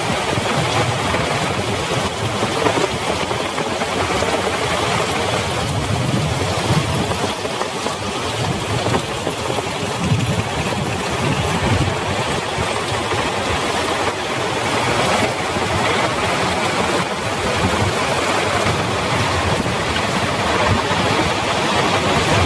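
Heavy rain falling steadily: a dense, even hiss with an uneven low rumble underneath.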